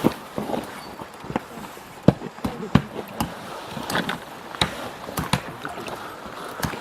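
Water splashing and dribbling in irregular short splashes as a box of matches is deliberately soaked.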